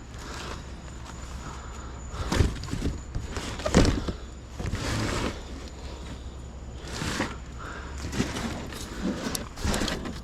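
Scrap being handled: irregular knocks, clanks and rustling as junk is moved about and pulled apart, with a low steady hum underneath.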